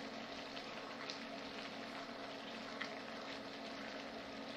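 Kale and mushroom sauce sizzling gently in a sauté pan on an induction cooktop, stirred with a spatula, with two light ticks of the spatula against the pan and a steady low hum underneath.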